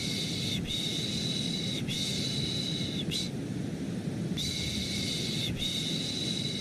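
Rhythmic shushing ("shh… shh… shh… sh") of the kind used to lull a baby to sleep, over a steady, low white-noise hum. The shushes come in strokes of just over a second each, three long and one short, then a pause of about a second, and the pattern starts again.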